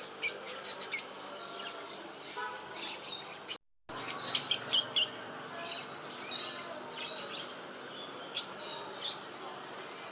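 Small pet birds chirping: quick runs of short, sharp, high chirps, busiest in the first second and again around the middle, with scattered single chirps between. The sound cuts out completely for a moment just before the middle.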